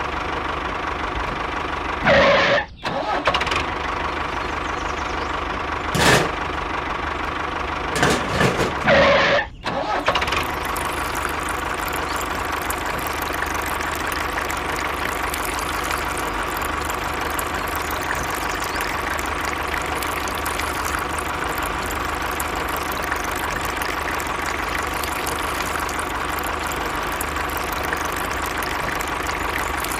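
An engine running steadily, with a few loud short bursts about two, six, and eight to nine and a half seconds in.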